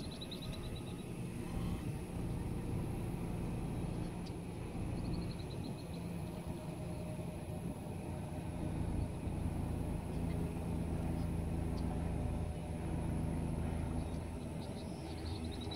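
A car engine idling steadily, with a low, even hum. Short, rapid trills of bird calls come in about five seconds in and again near the end.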